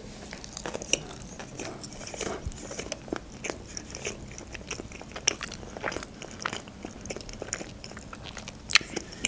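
Close-miked chewing of a salmon-topped sushi roll: wet mouth smacks and small crunching clicks at an irregular pace, with a sharper click near the end.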